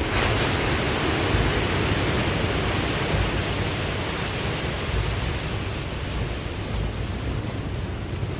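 Waterfall rushing: a steady, dense wash of falling water that comes in suddenly at the start.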